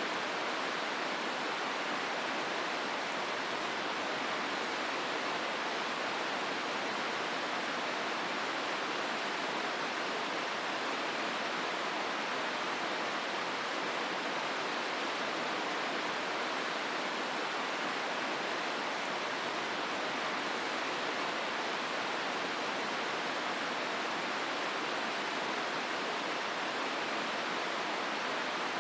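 Hozu River water rushing through the gorge: a steady, even rush with no breaks or changes.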